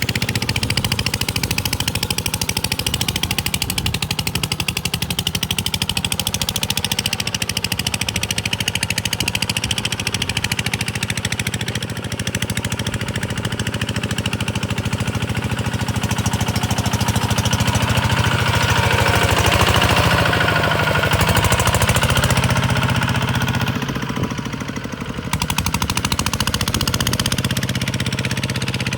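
Kubota single-cylinder diesel engine running with a rapid, steady chugging beat. It runs louder and higher from about two-thirds of the way in, then eases back briefly near the end.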